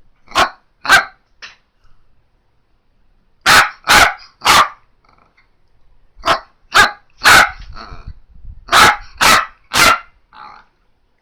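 Miniature dachshund barking: short, sharp barks in quick runs of two or three, about half a second apart, with pauses of a second or two between runs.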